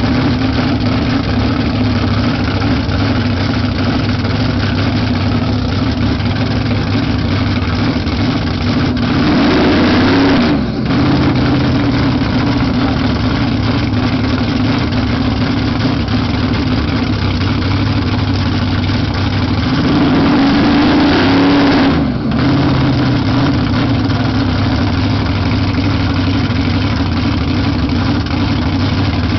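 Camaro drag car's engine idling loudly, blipped up in revs twice, about a third of the way in and again about two thirds in, each rev falling back to idle with a brief drop in level.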